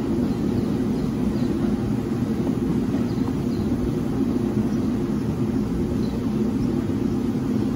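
Steady low rumble of an NJ Transit multilevel commuter train, pulled by an ALP-46A electric locomotive, as it pulls out and rolls away from the platform.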